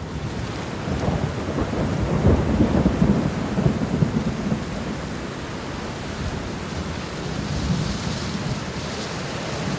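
Steady rain falling, with a low rumble of thunder that swells about a second in and fades away after a few seconds.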